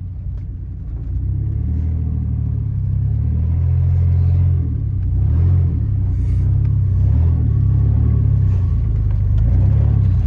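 2004 Dodge Dakota pickup's engine running as the truck is driven, its low drone rising and falling in pitch with the throttle.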